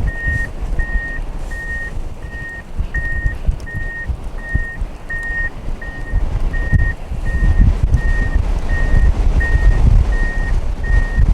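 Backup alarm of heavy equipment clearing snow, a steady high beep repeating about once every 0.7 seconds, over a low engine rumble that grows louder about seven seconds in.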